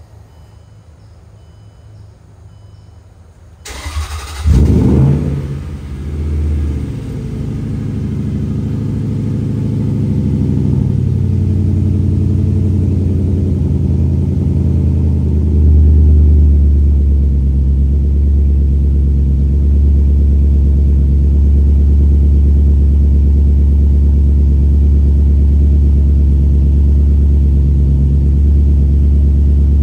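Range Rover Sport's supercharged V8 with its muffler deleted, cold-starting about four seconds in: a brief crank, a loud flare, then settling into a steady idle through the open exhaust.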